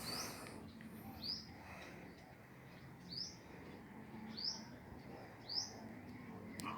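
A bird calling outdoors: five short, high chirps, each a quick upward sweep, repeated about every one to two seconds.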